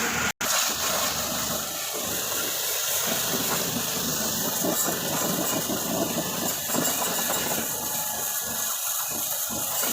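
High-pressure washer jet spraying a truck, a steady hiss with a motor running under it; it cuts out for an instant just after the start.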